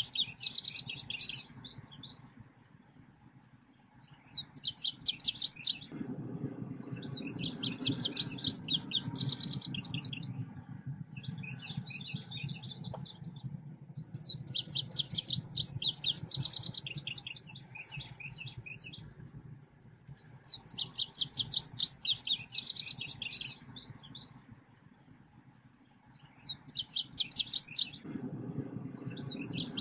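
Selendang biru birdsong: phrases of rapid, high-pitched chirping trills, each lasting two to three seconds, repeated after short pauses. A low, even background hum rises and falls underneath.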